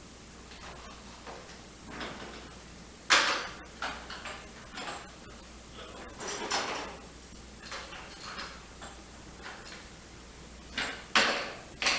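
Hand tools such as screwdrivers and pliers clattering and clinking as they are picked up and set into a toolbox, with a sharp knock about three seconds in, a cluster of clinks around six to seven seconds, and two more knocks near the end.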